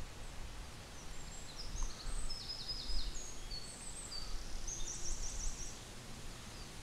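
Small birds singing: a run of short high chirps and buzzy trills, over a low steady rumble of outdoor background noise.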